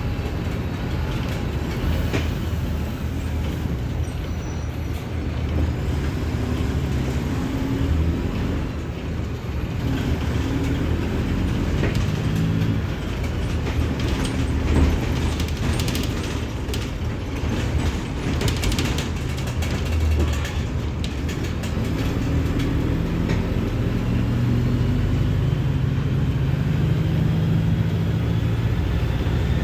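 Mercedes-Benz OF-1721 bus's front-mounted diesel engine running under way, its low pitch dropping and climbing with the throttle and climbing steadily near the end. Scattered clicks and rattles come through in the middle stretch.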